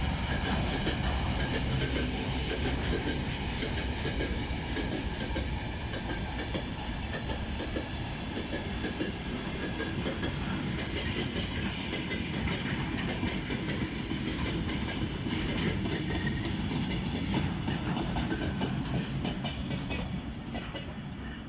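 Freight train's wagons rolling past at speed, wheels clacking over the rail joints with a faint steady ringing from the wheels and rails. Toward the end the sound eases off.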